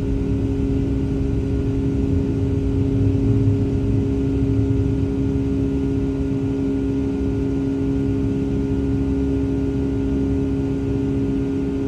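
Boeing 757-300's jet engines at high takeoff thrust, heard from inside the cabin: a loud, steady drone with two steady tones over a low rumble, which swells slightly a few seconds in.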